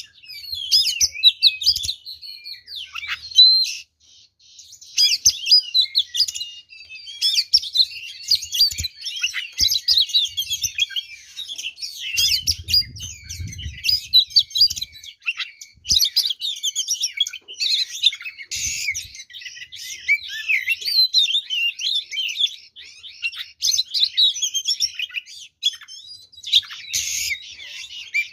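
Oriental magpie-robin singing a fast, unbroken stream of varied whistles and chirps, its song packed with phrases copied from other birds, in the aggressive, fighting mood that provokes rival magpie-robins.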